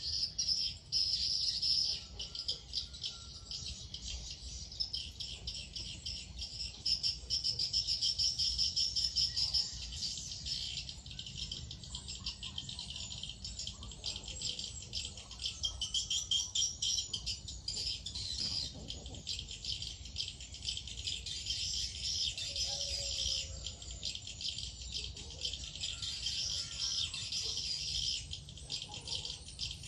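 Insects buzzing in a dense, high-pitched rasping chorus that swells and fades in loudness, with a few faint bird calls scattered through it.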